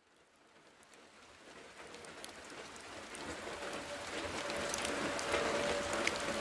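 Heavy rain fading in from silence, growing steadily louder, with scattered sharp clicks through it. A steady tone enters about four and a half seconds in.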